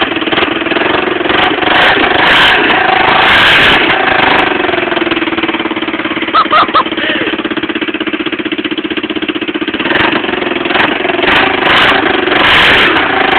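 1984 Honda Fourtrax ATV's single-cylinder four-stroke engine idling loud and steady after a cold start, its exhaust leaking at a hole in the bottom of the muffler. A few short high squeaks about halfway through.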